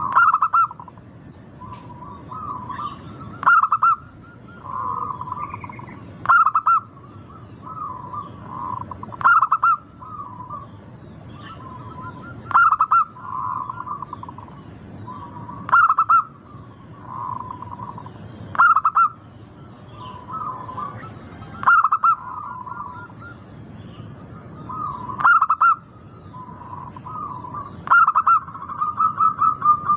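Zebra dove (local perkutut) cooing: a loud rolling coo phrase repeats about every three seconds, with softer coos in between.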